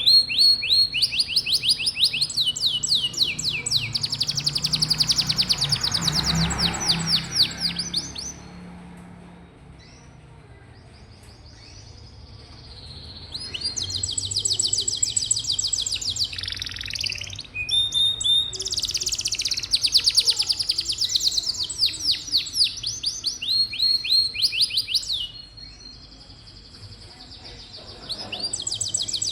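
Domestic canary singing long, rapid trilled phrases of repeated high notes, in three bouts separated by pauses of a few seconds. A brief low rumble sounds under the song about six seconds in.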